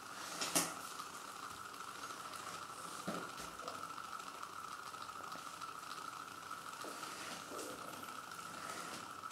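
Homemade paperclip-and-coil electric motor running: a fine, steady crackling from the copper coil's wire ends rubbing and making and breaking contact on the paperclip supports, with a steady high whine. There is a sharp click about half a second in and a softer one about three seconds in.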